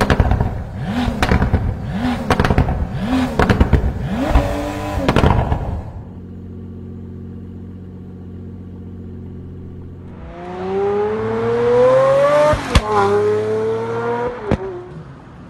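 Pagani supercar's V12 engine revved in about five quick blips, each a sharp rise and fall in pitch, then settling to a steady idle. About ten seconds in, a car accelerates hard with its engine pitch climbing, dropping briefly at an upshift and climbing again.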